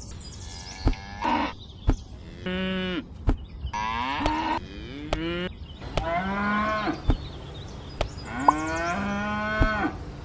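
Series of drawn-out, pitched animal-like calls, about seven of them, with gliding pitch, broken by a few sharp clicks.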